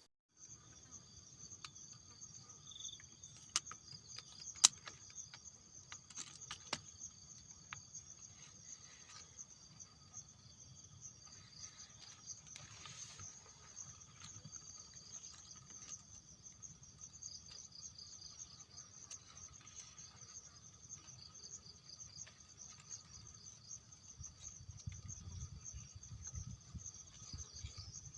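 Chorus of insects trilling steadily on several high pitches. A few sharp clicks stand out, the loudest about five seconds in, over a low rumble that grows stronger near the end.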